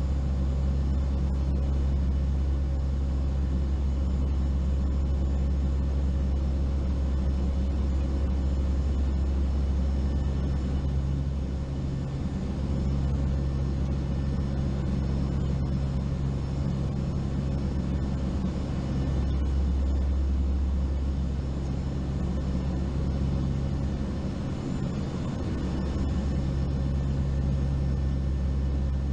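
Steady low drone of a four-engine turboprop hurricane-hunter aircraft heard from on board, the engine and propeller hum shifting slightly a few times.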